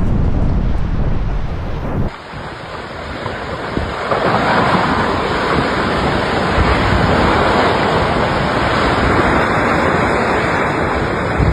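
Loud, steady noise of strong wind and rushing water, with wind buffeting the microphone. About two seconds in, the deep low rumble gives way abruptly to a brighter, hissing rush.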